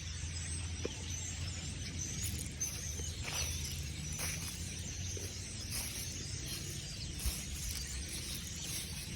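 A large flock of birds calling from the trees: a continuous haze of high overlapping calls with a few louder downward-sweeping calls, over a low steady rumble.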